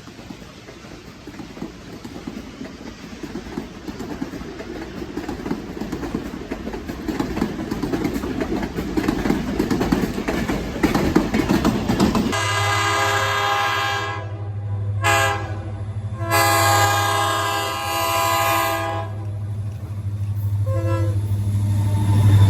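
A train approaching with a rising rumble and wheel clatter on the rails. About twelve seconds in, a diesel locomotive's horn sounds in several loud blasts over a steady low engine drone, then fades near the end.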